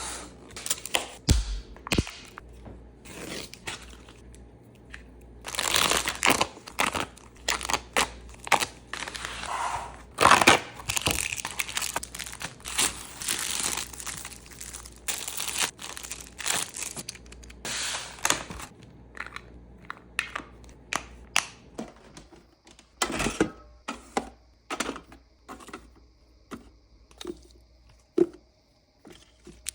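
Plastic grocery packaging crinkling and being torn open, mixed with sharp clicks and knocks as items are handled and set down in a mini fridge. The rustling is heaviest in the first half; later come mostly separate clicks and knocks.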